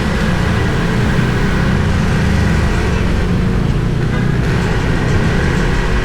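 Motorbike engine running steadily while riding, with the rumble of road and wind noise picked up on the move.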